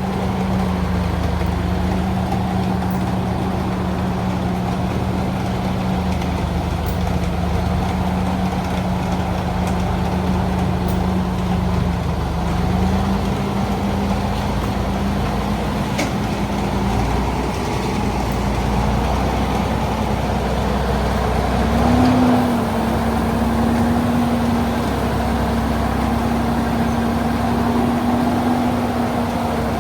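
Old truck engine running steadily with a low drone. Its pitch steps up slightly about thirteen seconds in, and it revs briefly about twenty-two seconds in.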